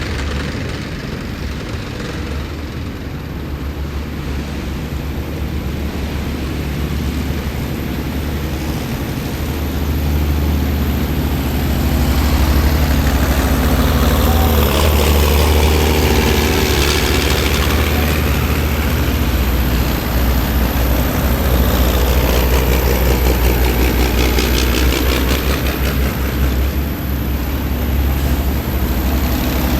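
Heavy military vehicles driving past in a column, their diesel engines giving a deep, steady rumble. It grows louder about ten seconds in as vehicles pass close, and a higher rushing whine sweeps in and out with each passing vehicle.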